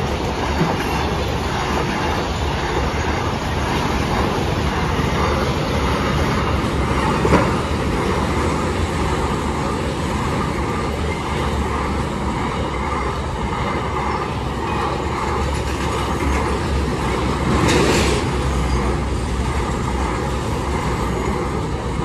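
Indian Railways train running past at speed: a steady rush of coaches and wheels on the rails, with one sharp knock about a third of the way in and a short louder swell near the end.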